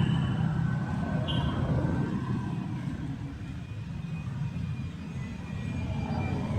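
Street traffic: a motor vehicle's engine rumble fades after passing, then more traffic swells in near the end.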